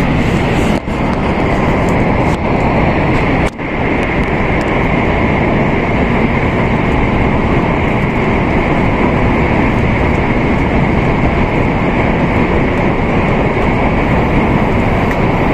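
Steady running noise of an N700A Shinkansen at speed, heard inside the passenger car, with a constant hiss-like rush and a steady higher hum. Two brief sharp drops in the sound come about one and three and a half seconds in.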